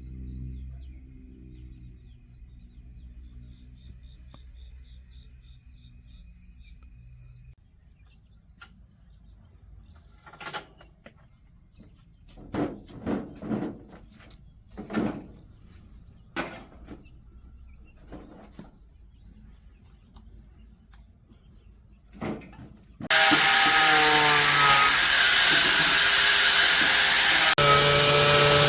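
Insects chirring steadily under a few sharp knocks and clicks of metal parts being handled. About three-quarters of the way in, an electric power tool starts suddenly and runs loud and steady.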